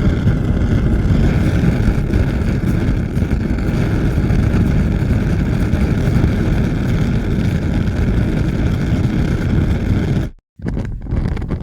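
Fire burning with a steady, dense, low rushing noise that cuts off abruptly about ten seconds in; after a brief gap a different fire starts, crackling with scattered sharp pops.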